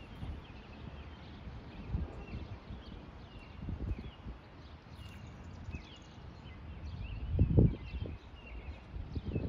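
Small birds chirping, short repeated calls, over an irregular low rumble that swells into a couple of louder bumps near the end.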